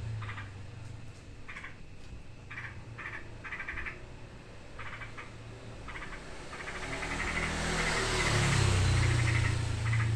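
Yellow-vented bulbuls (trucukan) giving repeated short, rattling alarm chatters, frightened and setting each other off. A low rumble runs underneath and grows louder in the second half.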